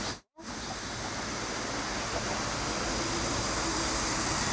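Steady rushing of running stream water, cutting out to silence for a moment just after the start.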